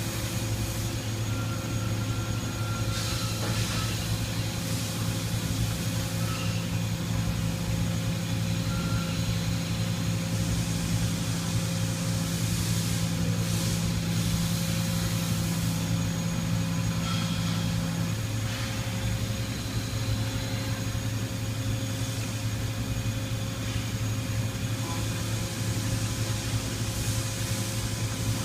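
Toyoda CNC horizontal mill running with a steady machine hum and whine. A low hum tone cuts out about two-thirds of the way through, and a few short faint higher tones and bursts of hiss come and go.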